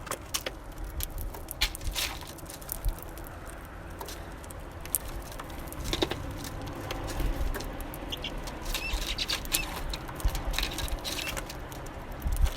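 Small birds feeding at a bird feeder: a stream of sharp pecking and scrabbling clicks on seed and feeder. Short high call notes come in a few times in the second half.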